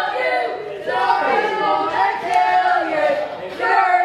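Wrestling crowd chanting and shouting together, many voices at once.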